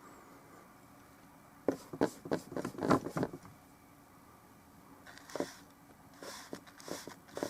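Short scrapes and light knocks of oil-painting tools being worked by hand, in a busy cluster about two seconds in and a few more near the end.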